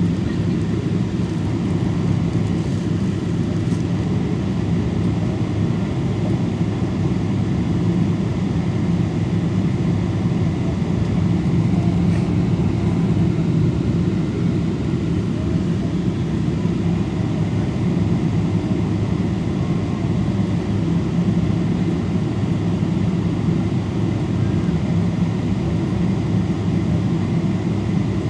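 Steady cabin drone of a Boeing 777-200 airliner heard from a window seat, a constant low rumble of the engines with a faint hiss above it.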